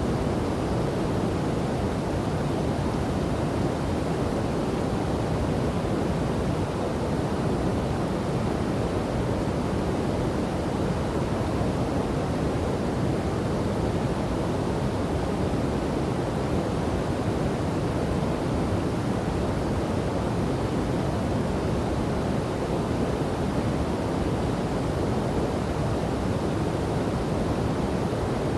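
Steady, unbroken rush of water from a river and waterfall, deep and full with little high hiss.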